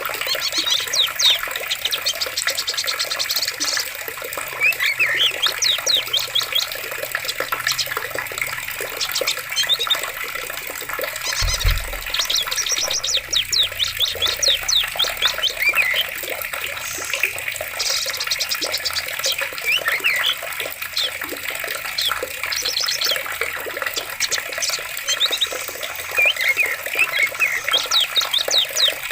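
Running water in a forest with many birds chirping and trilling over it throughout. A brief low thud sounds about twelve seconds in.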